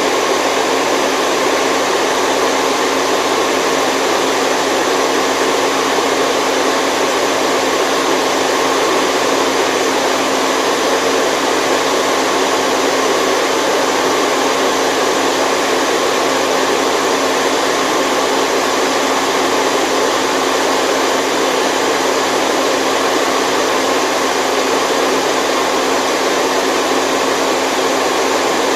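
Steady white noise for a baby's sleep: a constant, even rushing hiss that never changes.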